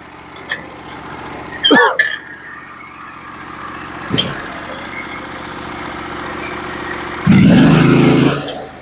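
Portable bandsaw mill's gas engine running steadily, with a brief wavering squeal about two seconds in. Near the end the sound turns much louder and fuller for a little over a second, then drops back.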